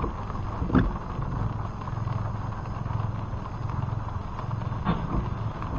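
Steady engine and road rumble of a car driving, with a couple of short knocks, the first and loudest about a second in.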